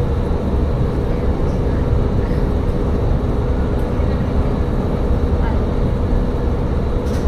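Tsugaru Railway diesel railcar running along the line, a steady low engine and rail rumble with a held hum, heard from on board.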